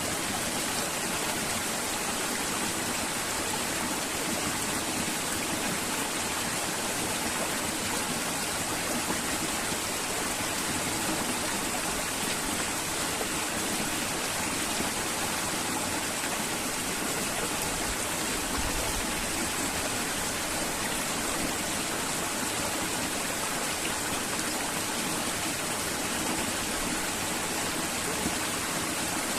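River water flowing steadily, an even hiss with no breaks.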